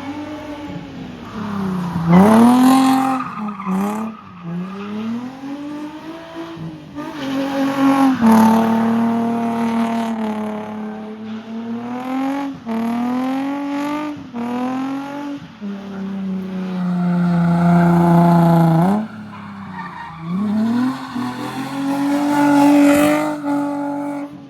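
Nissan 350Z's V6 engine revving hard under load, its pitch climbing and dropping again and again, with one longer steady stretch near the end before a sharp rise. Tyres squeal as the car is driven sideways in drift testing.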